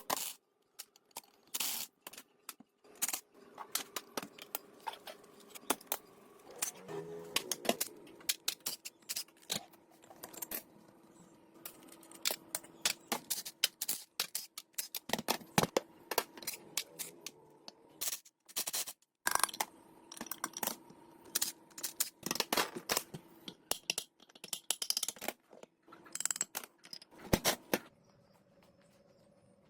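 Hand tools clicking, tapping and scraping on metal engine parts in quick, irregular strikes, over a faint steady hum.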